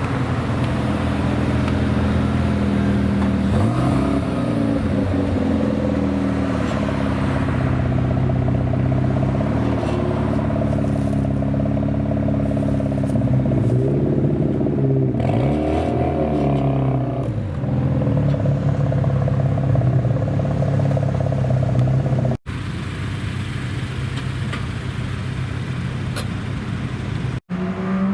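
Engines of modified Japanese cars running at a steady low idle, with a few quick revs that rise and fall in pitch, twice briefly a little past the start and again near the middle. The sound cuts off abruptly twice near the end, where one clip gives way to the next.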